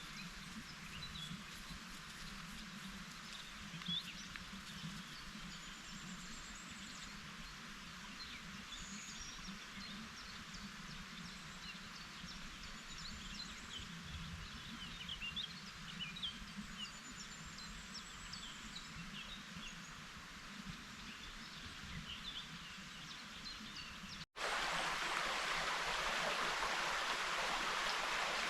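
Woodland ambience: many small birds chirping and singing over a steady outdoor hiss. About 24 seconds in the sound cuts and a louder, steady rushing noise takes over.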